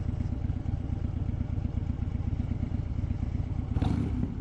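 Harley-Davidson Dyna Wide Glide's 103 cubic-inch V-twin running through a Vance & Hines slip-on exhaust, a steady low pulsing beat, with a brief louder surge near the end.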